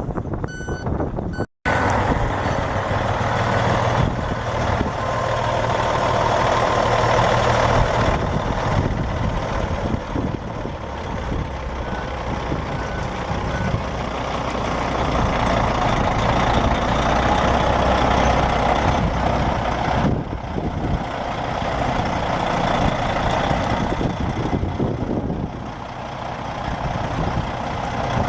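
Truck reversing beeps sound in short repeated pulses. After a sudden cut, a heavy dump truck's diesel engine runs steadily under load, with faint reversing beeps again near the middle.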